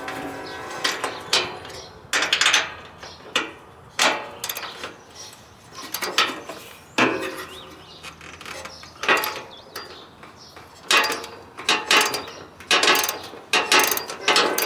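Hand tools working on the metal parts of a riding mower: a string of irregular clicks and clanks, some with a brief metallic ring.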